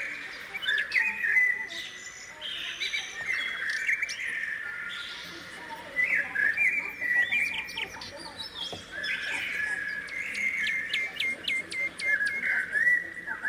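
Several small birds chirping and twittering over one another, with a quick run of short rising notes about three-quarters of the way through.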